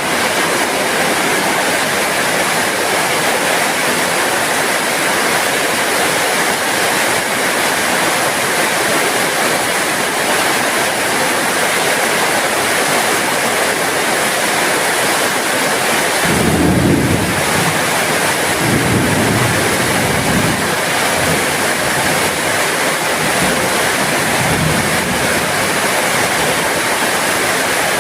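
Heavy rain falling steadily. About halfway through, a low rumble swells up and comes and goes for several seconds.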